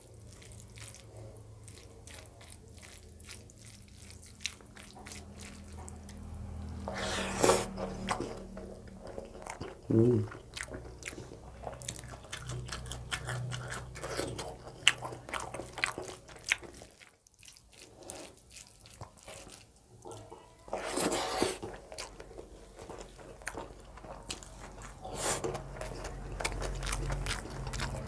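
Close-up sounds of a man eating rice mixed with dal by hand: wet chewing and many small mouth clicks, with a few louder moments.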